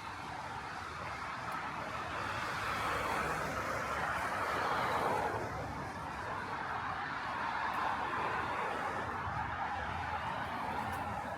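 Cars passing on a wet road: tyre hiss that swells and fades twice, loudest about five and eight seconds in.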